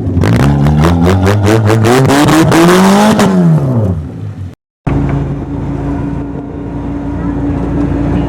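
Straight-piped Pontiac Sunfire 2.2 four-cylinder engine revved up and back down twice, then, after a brief break, held steady at high revs.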